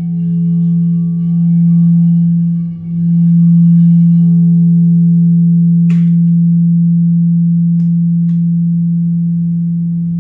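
A sustained low ringing tone with fainter higher overtones, swelling and dipping in loudness in the first few seconds and then holding steady. A sharp click comes about six seconds in, with two faint ticks soon after.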